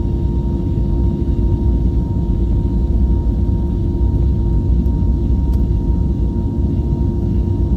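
Airliner cabin noise aboard an Airbus A321neo: a steady, loud low rumble from its Pratt & Whitney PW1100G geared-turbofan engines, with two steady humming tones, one low and one higher, held throughout.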